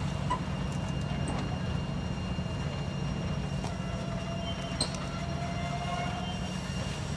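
Rear cars and caboose of a slow-moving train rolling past, a steady low rumble of steel wheels on rail. A faint thin squeal rises from the wheels near the middle, with a small click about five seconds in.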